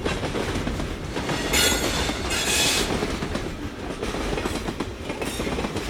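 Train rolling on rails, a steady rumble with wheel clatter, and a high squeal of the wheels from about one and a half to three seconds in.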